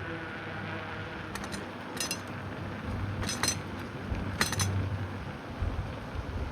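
Bicycle rattling metallically in four short clusters of clinks over a steady low hum.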